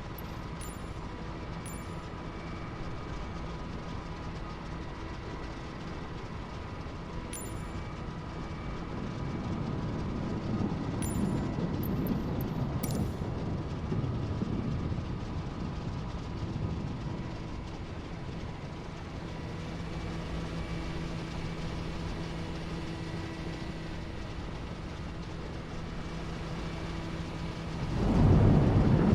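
DC-3's twin radial piston engines running with a steady drone. It swells for a few seconds in the middle and grows much louder about a second before the end.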